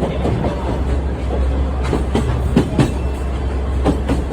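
Sightseeing trolley train running on the rails: a steady low rumble with sharp wheel clacks over rail joints, several close together about two to three seconds in and another near the end.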